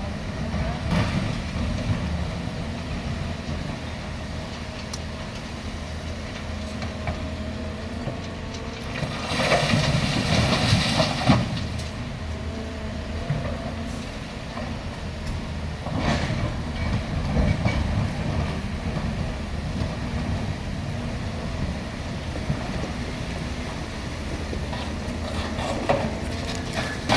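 Volvo excavator's diesel engine running steadily, with a louder rushing surge from about nine to eleven seconds in.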